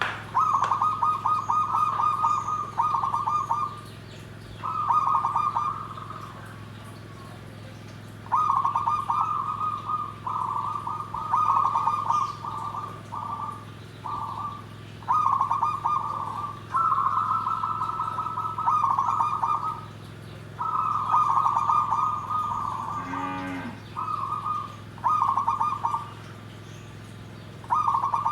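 Zebra dove (perkutut) cooing: repeated trilling coo phrases, all at much the same pitch, each lasting up to about two seconds with short pauses between, over a steady low hum.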